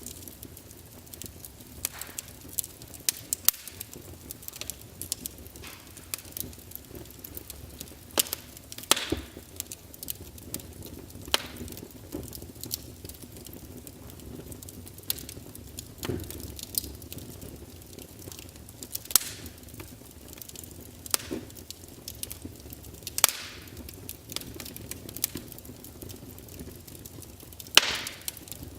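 Wood fire in a fireplace crackling: irregular sharp pops and snaps of burning logs over a soft steady hiss, with a handful of louder cracks.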